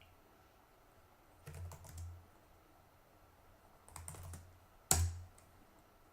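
Computer keyboard keys being struck in a few short clusters, the last keystroke about five seconds in the loudest.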